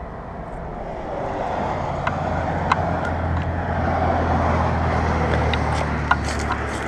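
Road traffic on a busy highway just feet away, a vehicle passing with its rumble and tyre noise swelling to a peak about four seconds in, then easing off.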